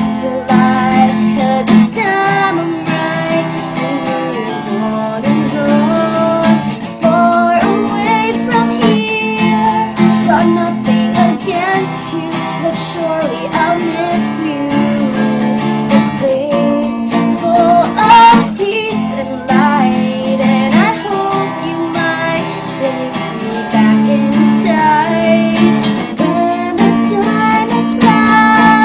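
Acoustic guitar strummed steadily, with a young woman's voice singing a wordless-sounding melody over it.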